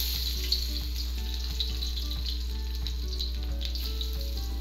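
Minced garlic sizzling steadily in hot cooking oil in a wok, an even hiss from the fresh garlic frying. Soft background music runs underneath.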